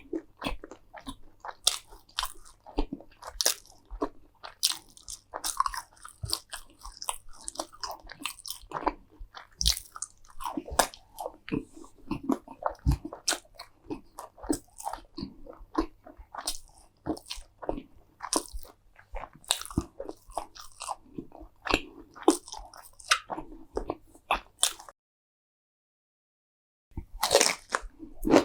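Close-miked crunchy eating: a person biting and chewing crisp food, with dense, irregular crunches and wet mouth clicks. The sound cuts out completely for about two seconds near the end, then the crunching resumes.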